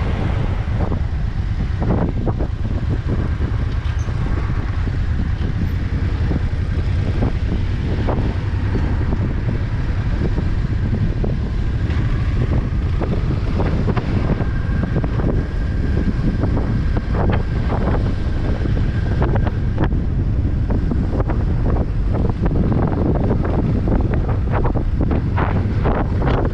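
Wind buffeting a helmet-mounted camera microphone on a moving motorcycle: a steady low rumble broken by frequent short gusts.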